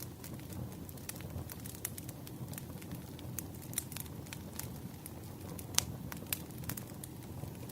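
Wood fire burning: a steady low rumble of flames with frequent sharp, irregular crackles and pops of the burning logs, the loudest pop a little before six seconds in.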